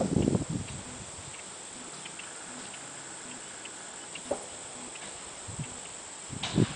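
Steady high-pitched insect chorus, with a few low thumps in the first moment and again near the end.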